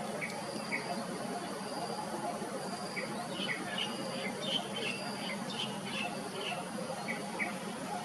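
Birds chirping: scattered short chirps, with a quick flurry of higher chirps in the middle, over a faint, repeating insect buzz.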